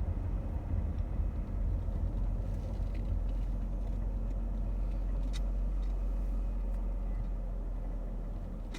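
Steady low road and engine rumble inside a moving minivan's cabin. The rumble eases off a little in the second half.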